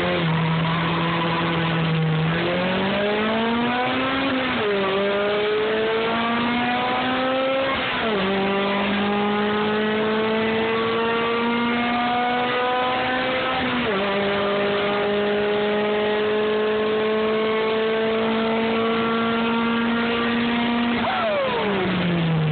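Honda B16 1.6-litre VTEC four-cylinder with open headers at full throttle from a standstill: the revs are held for about two seconds, then climb. Three upshifts follow, about 5, 8 and 14 seconds in, each dropping the pitch before it rises again more slowly. The throttle is lifted and the revs fall near the end.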